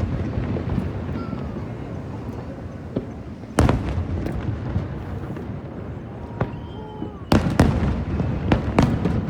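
Aerial fireworks shells bursting: one sharp bang about three and a half seconds in, then a quick run of bangs from about seven seconds on, with a low rumble between them.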